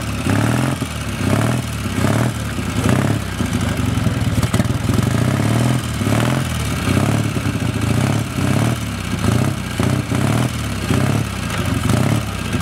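Engine of a vintage military vehicle running, its sound pulsing evenly about twice a second.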